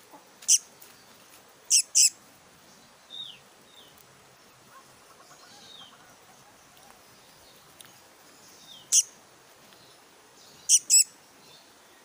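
Black-naped monarch (kehicap ranting) fledgling giving short, sharp, high calls, singly and in quick pairs: six in all. A few faint falling chirps come between them.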